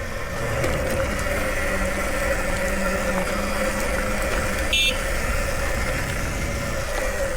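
Nexvey Flash electric dirt bike riding along a trail in its mode 2 power setting, its motor giving a steady whine over a low rumble of tyres on the dirt. A brief high chirp cuts in about five seconds in.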